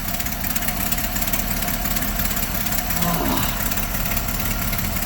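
GMC C5000 truck's big-block V6 turning over steadily on the starter without firing, cranking to get fuel pulled up into a fuel system that has sat dry and has not yet primed.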